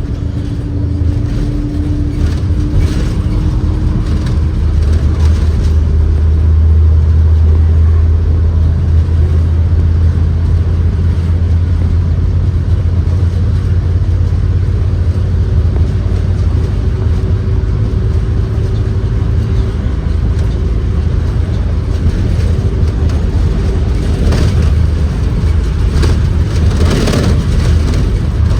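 Ride inside a 2023 Blue Bird Vision school bus under way: the Ford 7.3L V8 and drivetrain run with a steady low drone over road noise, and a faint whine climbs slightly in pitch in the first few seconds. A few rattles or knocks come through near the end.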